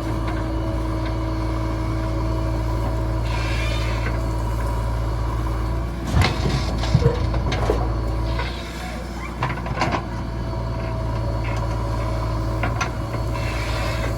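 Diesel engine of a JCB 3DX backhoe loader running steadily while it digs and loads mud. There are a few metallic clanks and knocks about halfway through, and brief hisses near the start and the end.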